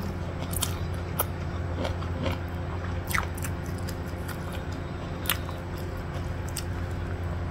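Close-up mouth sounds of a person chewing a mouthful of rice and stir-fried pak choy with egg: soft chewing with a few scattered sharp smacks and clicks. A steady low hum runs underneath.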